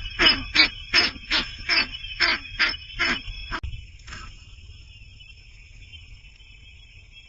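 A baby bird's harsh begging calls, repeated about three times a second, cutting off suddenly about three and a half seconds in. After that a steady high-pitched whine carries on.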